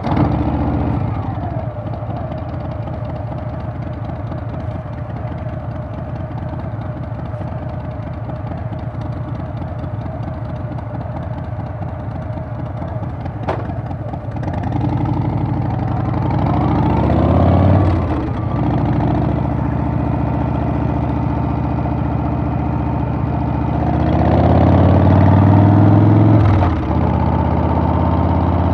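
Harley-Davidson Softail's Milwaukee-Eight V-twin engine running steadily under way, then pulling harder twice with a rising pitch, about halfway through and again near the end, each ending with a sudden dip as the throttle eases or a gear changes.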